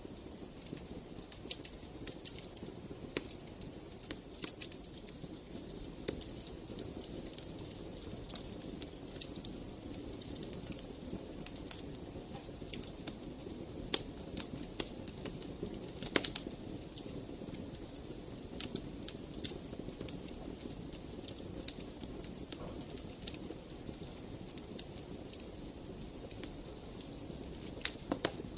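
Wood fire crackling in a fireplace: irregular sharp pops and snaps, a few louder ones in the middle, over a steady low flame rumble.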